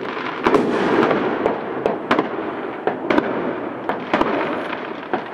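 Many fireworks and firecrackers going off around the area: a continuous crackle of distant bangs, with sharper, nearer reports about every half second.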